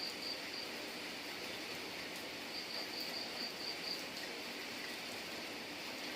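Steady rain hiss, with an insect trilling in fast high pulsed runs: briefly at the start and again for about a second and a half near the middle.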